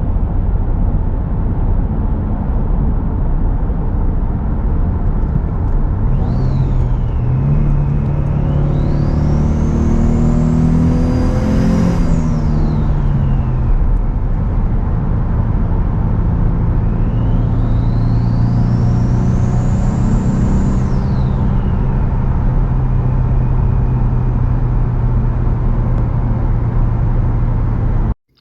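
A Ford Mustang's 3.7 L Cyclone V6 running while driving: it speeds up hard for a few seconds, then settles into a steady cruise. A high whistle climbs and falls twice along with the engine. The sound cuts off abruptly just before the end.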